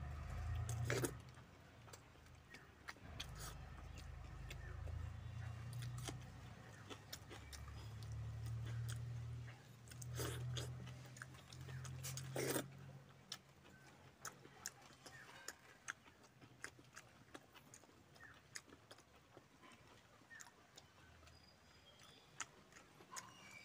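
Close-up eating sounds of rice and chicken curry eaten by hand: chewing with many small wet mouth clicks and a few louder smacks. A low rumble underneath fades out about halfway through.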